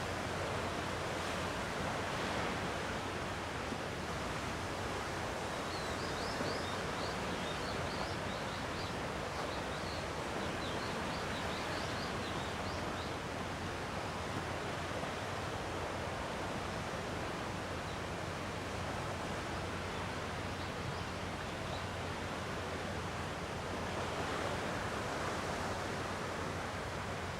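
Gentle sea waves washing steadily against the shore, with a run of short high chirps between about six and thirteen seconds in.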